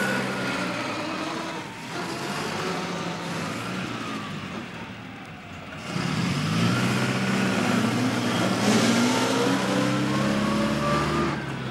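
Engine of a vintage open touring car running as the car pulls away and drives off along a muddy track, its pitch rising steadily near the end as it speeds up.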